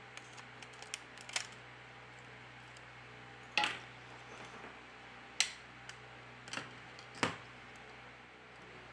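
Small sharp clicks and taps of repair tools and smartphone parts being handled during disassembly: five or so distinct clicks spread irregularly through, with fainter ticks between them.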